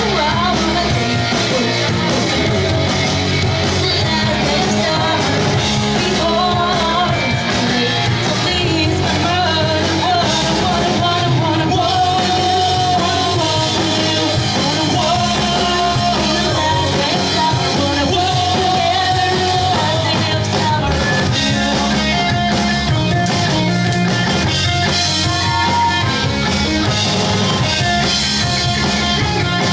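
Pop-punk band playing live and loud: distorted electric guitars, bass and drums, with a sung vocal.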